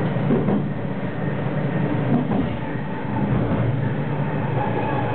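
Electric passenger train running along the track, heard from on board: a steady rumble of wheels on rails with a faint steady whine above it.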